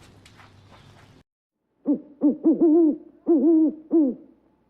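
Short pitched animal calls, eight notes in two quick groups of four, each note rising and then falling. They begin about two seconds in, after a faint hiss that cuts off.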